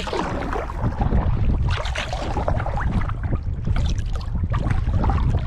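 Water splashing and sloshing around a kayak out on open water, with wind buffeting the microphone in a steady low rumble.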